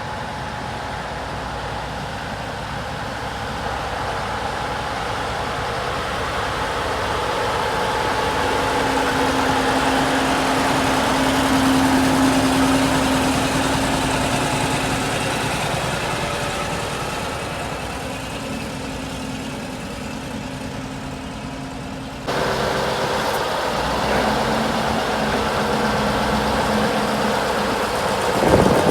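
Diesel engine of a T-150K wheeled tractor running steadily. It grows louder toward the middle and then fades again. About two-thirds through, the sound changes abruptly to another stretch of engine running.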